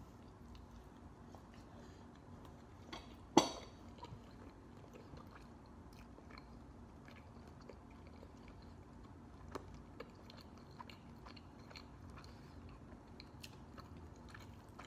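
Biting into and chewing a roasted rotisserie chicken leg: faint wet mouth sounds with small scattered clicks over a steady low room hum. One sharp click about three and a half seconds in is the loudest sound.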